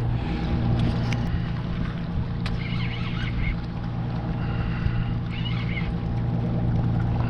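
A boat's engine running steadily at idle, a constant low hum.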